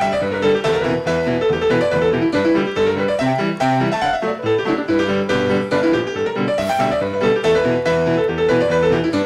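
Solo piano music played at a brisk, even pace, with quick repeated notes and chords.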